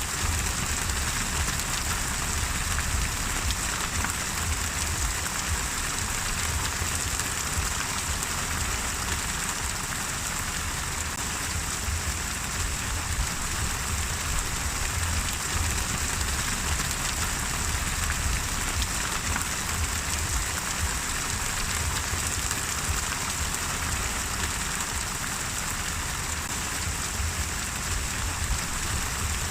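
Steady rain falling on a surface, an even hiss with many small drop patters and a low rumble underneath.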